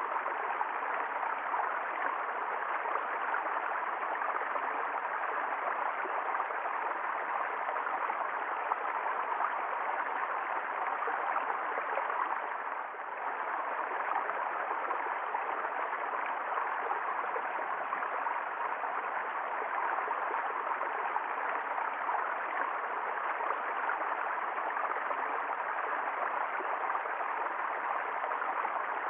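Water flowing down a valley stream: a steady rushing with no breaks.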